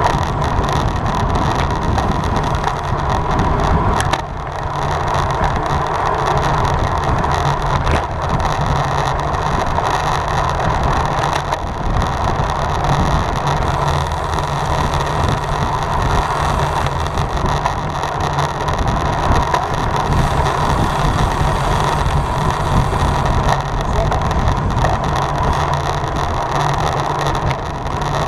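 Road bike riding at race speed: a steady rush of wind and tyre noise on the road, with a low rumble throughout.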